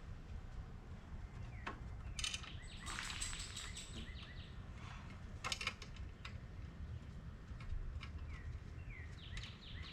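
Birds chirping over a steady low outdoor rumble, with a few sharp clicks from small bolts being threaded in by hand, about two and five and a half seconds in.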